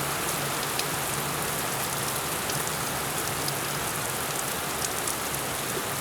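Heavy rain pouring down steadily, an even hiss dotted with sharp individual drop hits, and a faint low hum underneath.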